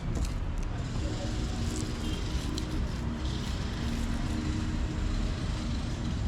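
Steady outdoor ambience with a constant low rumble and the faint on-and-off hum of a motor vehicle engine.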